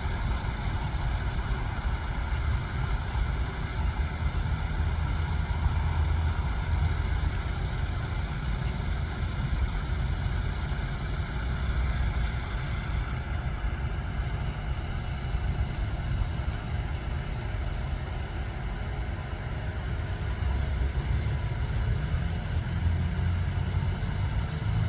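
Steady low rumble of a running vehicle engine, unchanging throughout.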